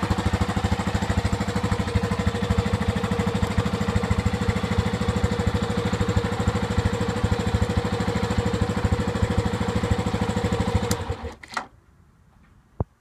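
Yamaha Serow 250's single-cylinder engine idling through a Delta Barrel 4 aftermarket muffler, an even beat of exhaust pulses. About eleven seconds in the engine is shut off and stops after a few last pulses; a single click follows near the end.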